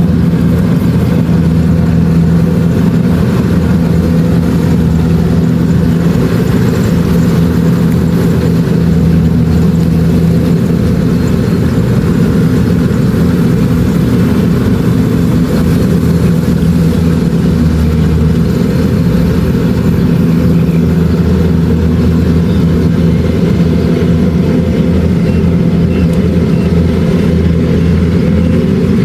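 Kubota DC-70 Plus combine harvester's engine running steadily under load, a constant drone with no breaks or changes.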